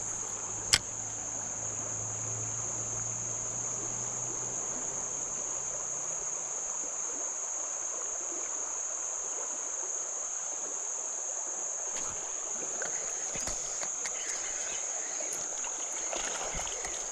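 Creek water running, with a steady high-pitched insect drone throughout. A single sharp click comes about a second in.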